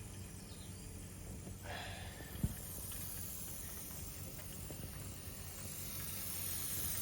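Mamod SE1 toy steam engine's boiler hissing steam as it builds pressure, the hiss growing louder from about halfway through. There is a short puff of noise a little before two seconds in, and a single sharp click just after.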